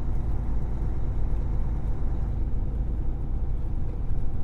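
Steady low rumble of engine and road noise inside a Kenworth T680 semi truck's cab while it drives along.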